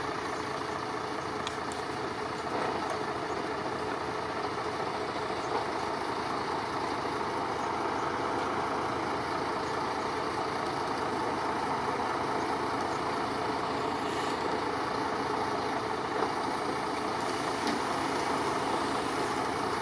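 Truck engine running steadily at idle, with no change in pitch or level.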